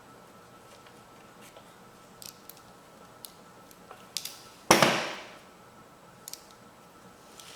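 Light scattered clicks and taps of small engine parts and bolts being handled. About halfway through comes one loud, sharp clank that rings off over half a second.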